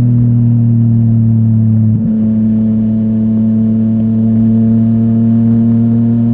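Yamaha MT-09's inline three-cylinder engine running through a full Akrapovic exhaust, holding a steady note. About two seconds in the note breaks briefly and steps to a slightly different pitch.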